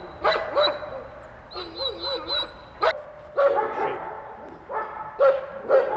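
Dog barking and whining, a string of short calls coming in several bursts.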